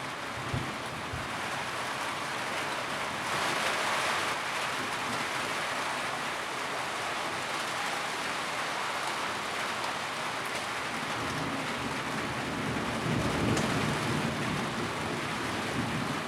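Steady heavy rain on a tin roof, a dense even hiss that swells louder twice. There is a brief knock just after the start and a low rumble under the rain about 13 seconds in.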